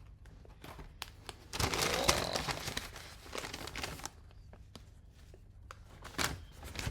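Takeaway food packaging being handled: crinkling and rustling, with a louder stretch of crumpling about a second and a half in that lasts a second or so, and scattered small clicks.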